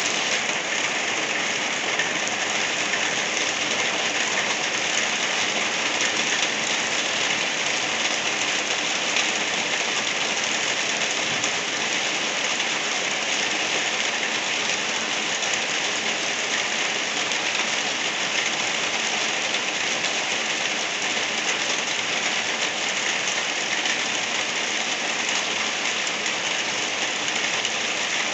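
Gentle rain falling steadily: an even, unbroken hiss with no distinct drops, thunder or pauses.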